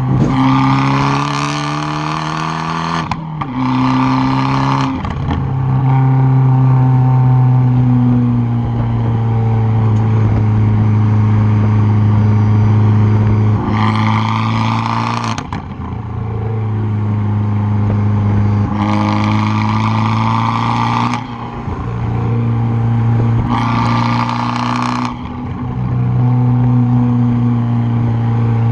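2013 Fiat 500 Abarth's turbocharged 1.4-litre four-cylinder through a straight-piped exhaust, heard close at the tailpipe: about five hard bursts of throttle, each cut off suddenly, between stretches of steadier running.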